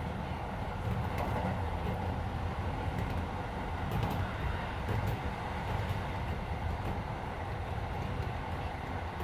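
Interior running noise of a Keisei 3400 series electric train car at speed: a steady rumble of wheels on rail with faint occasional clicks, and the car's air conditioning running underneath.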